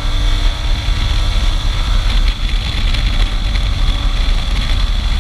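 Motorcycle under way: a steady engine rumble mixed with wind rush over the microphone.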